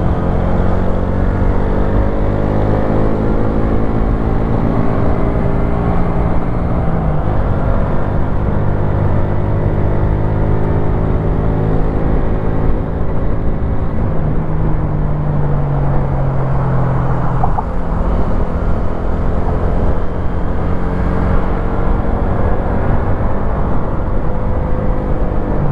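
Wolf Classic 125cc motorcycle engine running under way, its pitch sinking and shifting in steps a few times as the speed changes, over steady riding noise.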